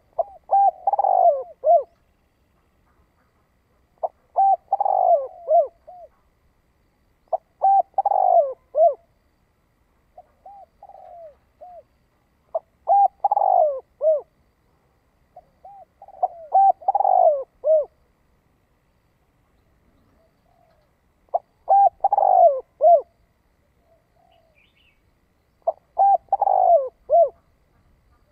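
Spotted dove cooing: seven loud phrases of several notes each, about every four seconds, with a softer short coo between the third and fourth phrases.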